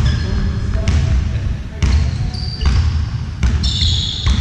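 A ball bouncing on a hard indoor court about once a second, with high squeaks and a background of voices.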